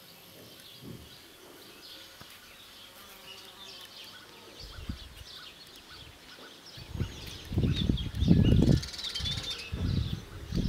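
Small birds chirping and twittering. From about seven seconds in, loud irregular low rumbling buffets on the microphone become the loudest sound.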